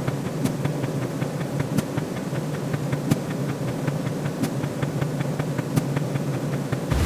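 Stock sound-effect bed: a steady low rumbling noise with rapid, irregular ticks several times a second, and a loud impact hit right at the end.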